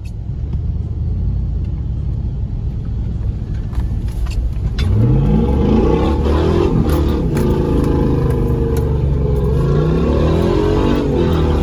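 Car engine revving hard while the car is drifted on snow, heard from inside the cabin. A low engine rumble builds for the first few seconds; about five seconds in the revs climb sharply and then sweep up and down repeatedly with the throttle.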